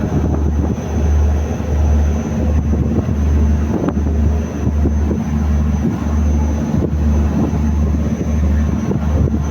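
Boat engine running steadily, a deep hum that throbs about one and a half times a second, with a thin steady high whine above it.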